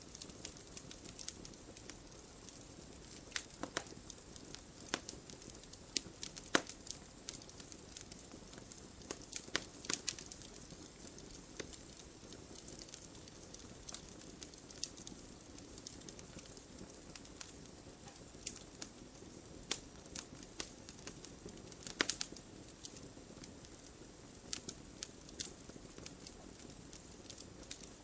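Wood fire crackling: a steady low hiss with irregular sharp snaps and pops, a few louder ones scattered through.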